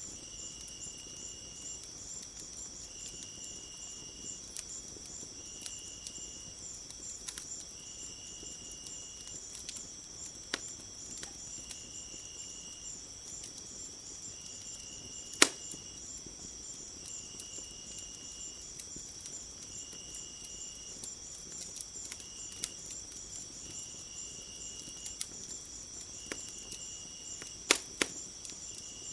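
Steady high trilling of crickets or other insects, with a lower call repeating in short dashes about every second and a half. Over it, a wood fire crackles with scattered sharp pops, the loudest about halfway through and a cluster near the end.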